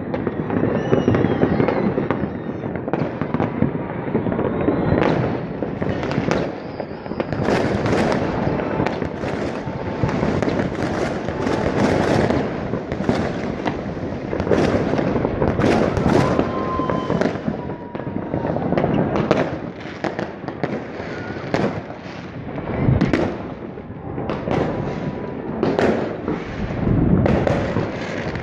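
Many fireworks going off at once across a city on New Year's Eve: a continuous, overlapping mix of bangs and crackles with no pause.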